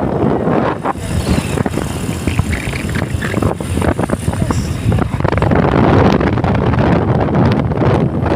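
Strong wind buffeting the microphone, a loud gusting rumble that swells and drops.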